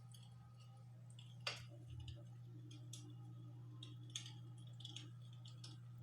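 Faint crackling of an imitation fireplace's fire-sound effect: scattered small clicks and pops, one sharper pop about a second and a half in, over a steady low hum.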